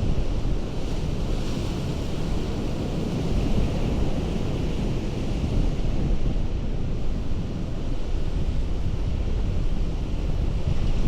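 Ocean surf on a rocky coast: a steady rush of sea noise, with wind rumbling on the microphone.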